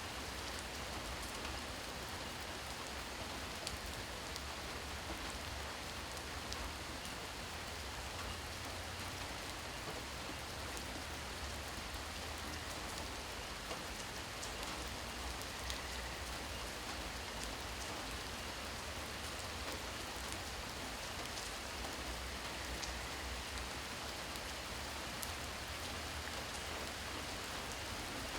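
Steady rain falling and pattering on surfaces, an even hiss with scattered single drop ticks standing out.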